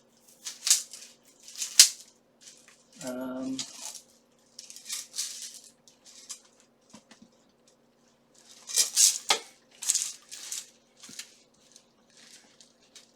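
Steel armor plates and fittings clinking and rattling as they are handled, in a series of short bursts, the loudest about nine to ten seconds in.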